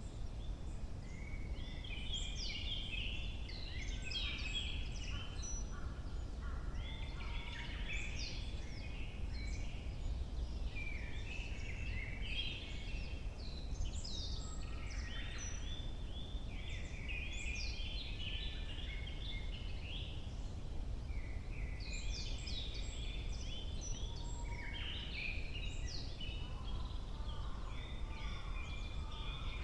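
Several songbirds singing, their short trilled and chirping phrases following one another almost without a break, over a steady low background rumble.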